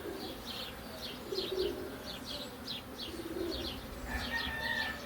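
A small bird chirping over and over, a few short high notes a second, over the faint low hum of honeybees from the opened hive.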